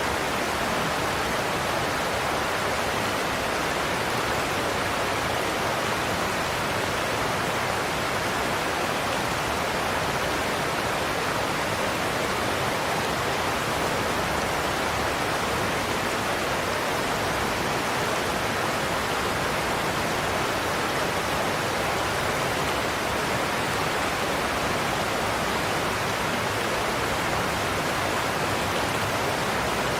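Large waterfall, water rushing and crashing in a steady, even roar.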